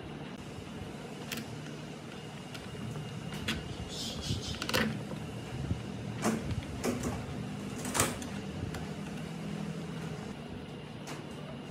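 Scattered clicks and knocks of parts being handled during workshop restoration work, over a steady low hum. A quick cluster of clicks comes about four to five seconds in, and the sharpest knock comes near eight seconds.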